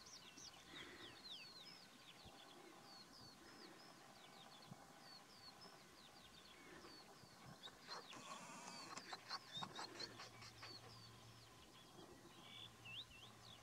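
Faint, repeated short chirps of a small bird, about two a second, with a brief patch of clicks and rustling a little past the middle.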